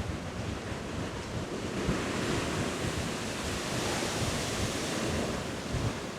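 Storm waves surging against a sea wall and washing back, a rushing wash that swells in the middle, with gusty wind buffeting the microphone.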